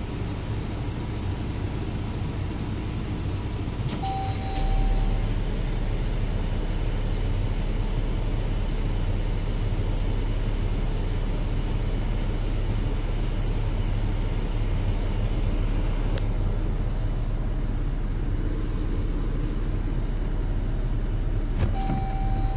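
Jeep engine idling, heard from inside the cabin as a steady hum, with a click and a short single-tone dashboard chime about four seconds in and again near the end. The cluster shows Auto Park engaged during this stretch.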